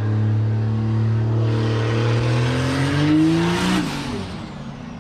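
Mercedes OM606 turbo-diesel straight-six in a Renault Master van accelerating hard, its engine note climbing steadily with a rising hiss for nearly four seconds. The note then drops away sharply.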